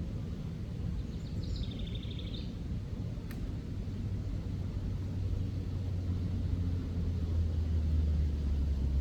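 Low outdoor rumble with a distant engine drone that grows louder over the last few seconds. A short warbling chirp comes about a second and a half in, and a faint click a little after three seconds.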